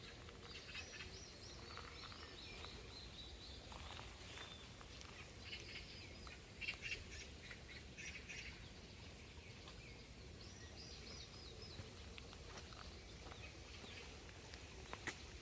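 Faint songbirds chirping in short phrases every second or two, over a low steady rumble and a few scattered small clicks.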